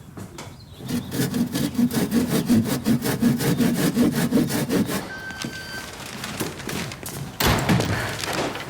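Fast, even rasping strokes, about five a second, for some four seconds, then a brief louder rush near the end.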